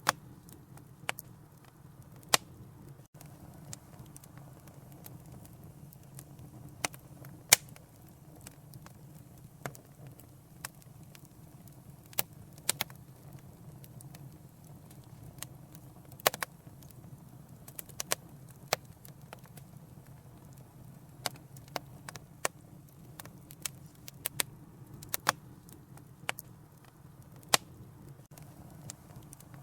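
Fireplace fire crackling: irregular sharp pops and snaps, about one a second, over a steady low rumble from the flames.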